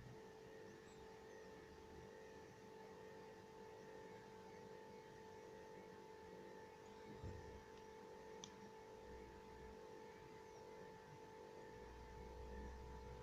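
Faint, steady electrical hum made of several steady tones, with a single soft knock about seven seconds in and a low rumble near the end.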